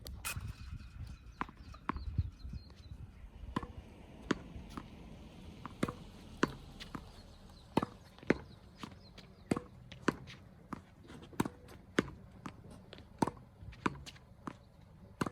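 Tennis balls being struck with a racket and bouncing on the court: sharp pops, often in pairs about half a second apart, repeating roughly every one to one and a half seconds.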